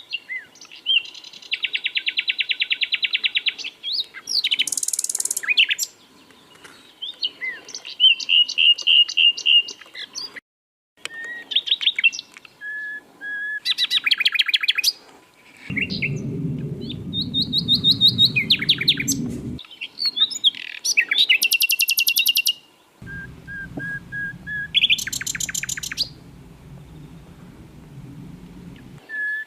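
Sikatan londo flycatcher singing a varied song of fast rattling trills, quick chirps and short runs of repeated notes, phrase after phrase with short pauses between. A low rumble sits under two of the phrases in the second half.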